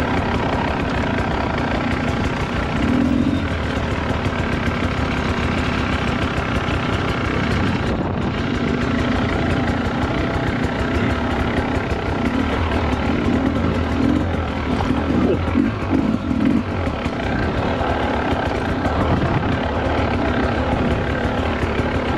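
Dirt bike engine running steadily on a trail ride, its note rising and falling a few times about two-thirds of the way through as the throttle changes.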